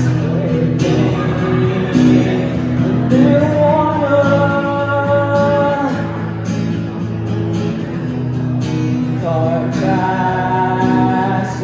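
Guitar strummed in a steady rhythm under a voice singing long held notes, one line about three seconds in and another near the end.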